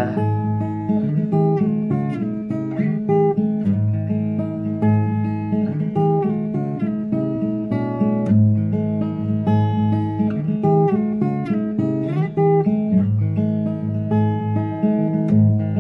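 Acoustic guitar playing an instrumental passage between sung verses, a steady run of plucked and strummed notes over low bass notes.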